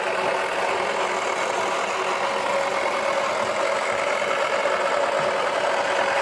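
Toy washing machine's small electric motor running steadily, a constant whirring hum.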